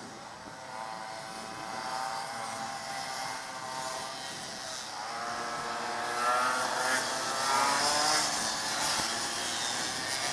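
Small engines of racing minibikes revving high, their pitch rising and falling through the gears as they pass. The sound grows louder past the halfway mark.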